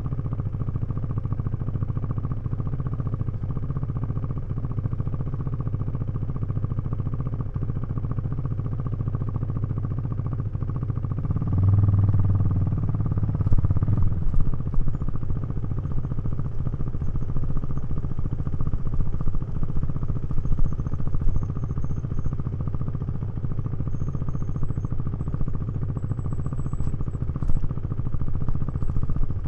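KTM 390 Duke's single-cylinder engine running steadily through a Remus exhaust, with the low exhaust note swelling louder for a couple of seconds about twelve seconds in as the throttle opens. A few sharp clicks or knocks come through after the swell and near the end.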